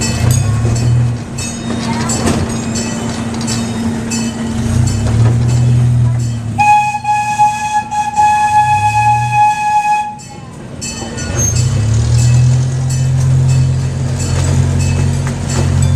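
Tourist ride train running with a low steady hum and rail clatter. About six and a half seconds in, its horn sounds one steady blast of about three and a half seconds.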